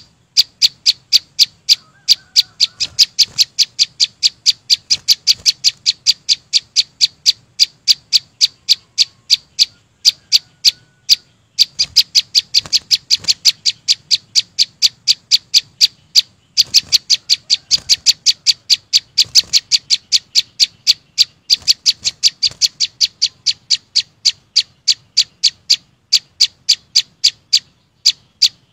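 A small songbird calling a short, sharp, high chip over and over, very evenly at about three notes a second, with a couple of brief pauses.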